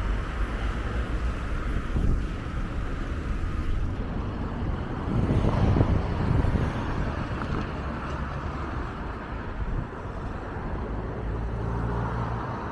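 Street traffic: a steady low rumble of road noise, with one vehicle passing loudest about halfway through.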